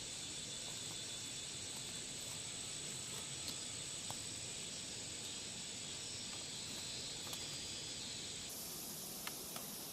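A steady, high-pitched chorus of insects, with a few faint clicks scattered through it. Near the end it changes abruptly to a higher, thinner hiss.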